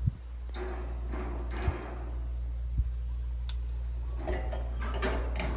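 Clatter of cutlery and a plate during a meal, with a few short knocks, over a steady low hum.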